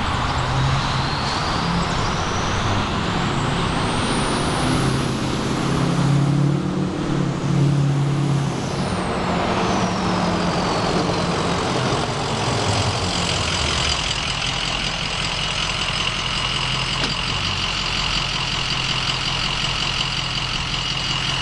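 Ford 6.0 Powerstroke V8 turbodiesel running through a muffler-less straight-pipe exhaust, its swapped-in 03 turbo whistling. The whistle climbs steeply in pitch as the engine comes up on boost, holds for a few seconds, then falls away as the revs drop, leaving a steady lower whistle over the diesel idle.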